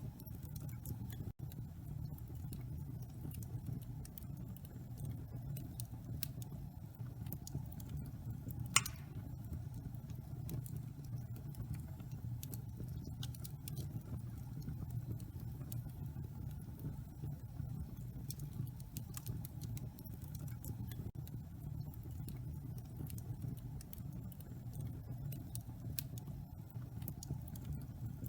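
Wood fire burning in a fireplace: scattered small crackles over a steady low rumble, with one louder pop about nine seconds in.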